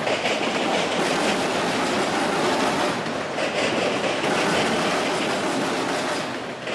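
Freight train of enclosed autorack cars rolling past, a steady noise of steel wheels running on the rails.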